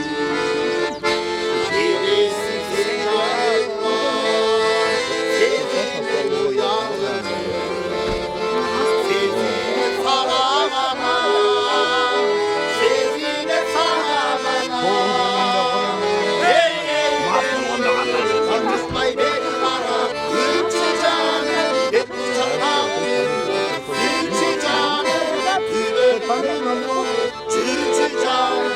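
Accordion playing a tune with held, sustained chords.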